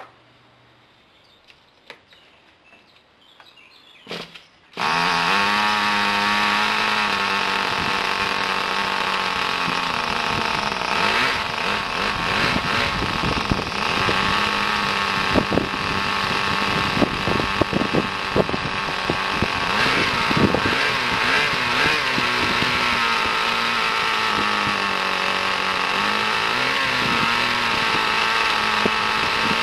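Kyosho GS11X nitro glow engine in an RC car, brand new and on its first run, catching about five seconds in after a short burst and then running steadily at a high pitch that wavers up and down, with scattered sharp cracks.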